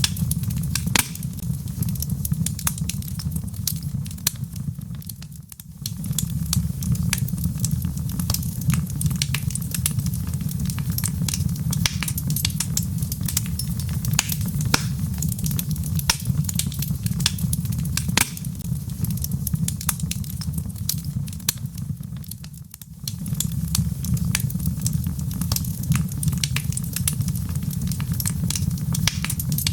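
Burning logs in a fireplace crackling: dense, irregular snaps and pops over a steady low rumble. The rumble drops out briefly twice, about five seconds in and again about three quarters of the way through.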